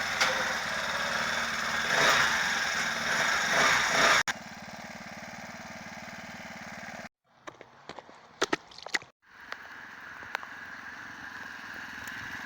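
Motorized bicycle engine running, loud with a steady hiss over it for about four seconds, then cutting abruptly to a quieter, steady engine sound. Around the middle the sound drops out briefly with a few sharp clicks, then the quieter engine sound returns, rising slightly near the end.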